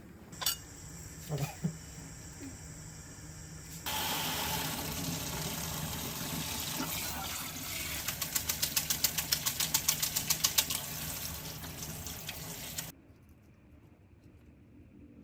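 Kitchen tap running into a sink for about nine seconds, turned on suddenly a few seconds in and shut off near the end, with a quick rhythmic pulsing in the flow partway through. A few light clicks come before it.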